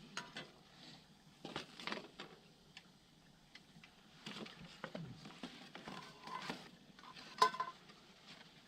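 Scattered clinks, knocks and scrapes of metal cookware and utensils over a campfire, with one sharp ringing clink about seven and a half seconds in.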